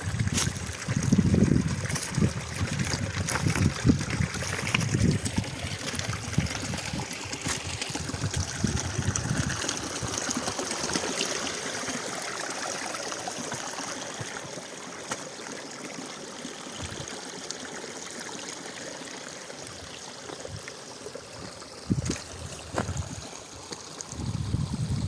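Mountain stream water trickling and flowing, with irregular louder splashes over the first ten seconds, then settling to a steadier, softer flow.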